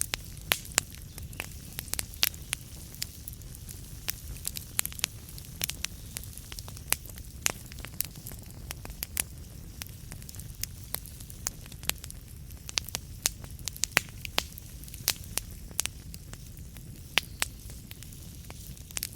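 Burning wood fire crackling: sharp, irregular pops and snaps over a steady low rumble of the flames.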